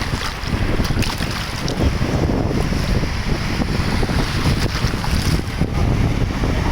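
Wind buffeting the microphone: a loud, uneven low rumble and rush with no clear tones.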